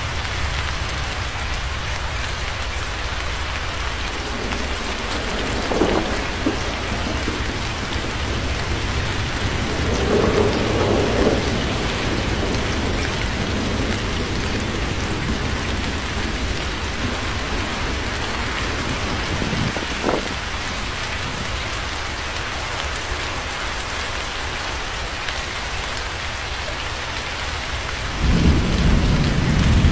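Steady rain falling, with a few short rumbles of thunder. A louder, longer rumble of thunder sets in near the end.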